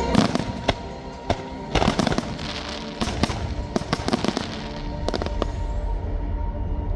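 Aerial fireworks bursting in a quick series of sharp bangs, thickest about two to four seconds in and ending after about five and a half seconds, over background music.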